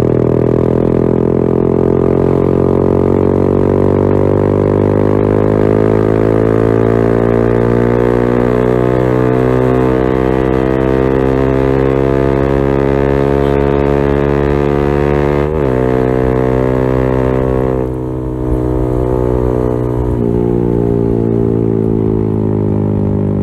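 Yamaha XSR155's single-cylinder engine running through a LeoVince GP Corsa Evo aftermarket exhaust, its pitch slowly climbing under steady throttle. About fifteen seconds in the pitch dips sharply and recovers, and from about eighteen seconds it runs a little quieter and lower.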